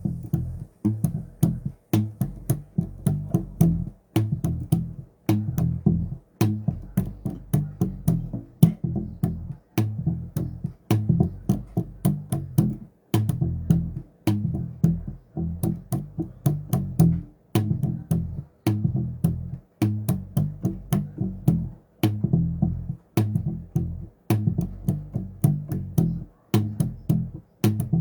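Bass guitar played solo: a continuous run of plucked low notes, several a second, each with a sharp clicky attack.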